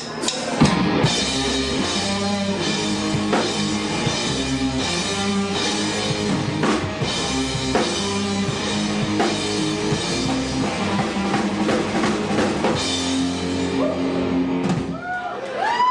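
Rock band playing live: drum kit, electric guitar and bass in a steady full-band passage. Sliding high tones come in near the end.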